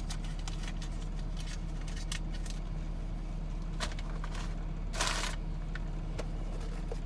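GMC Yukon's engine idling with a steady low hum while the SUV waits, with scattered light clicks and a short hiss about five seconds in.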